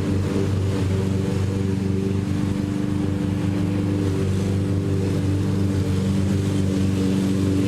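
Lawn mower engine running at a steady speed, a constant motor drone with a low hum.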